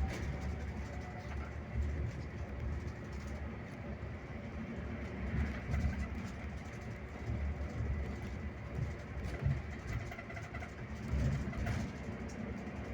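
Scania K360IB bus on the move: a steady low engine and road rumble that swells and eases every few seconds, with a thin steady high whine above it.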